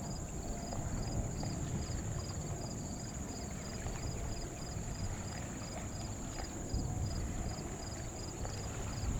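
Outdoor ambience: a low wind rumble, with a faint high chirp repeating about three times a second and a steady high hum behind it.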